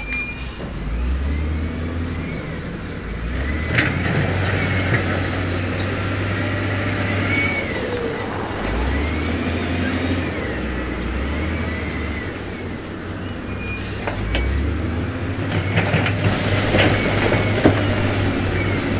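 Heavy diesel earthmoving machinery working stone: the engine swells and falls every few seconds under load, with repeated squeals and a few sharp metallic knocks and clanks.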